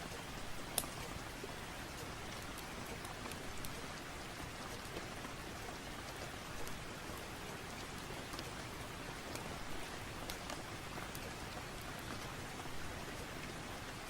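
Steady rain falling, with a few sharp ticks or crackles scattered through, the loudest about a second in.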